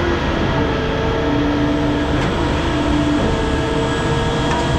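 Heavy machinery running steadily: a loud mechanical drone with several humming tones that come and go every second or so.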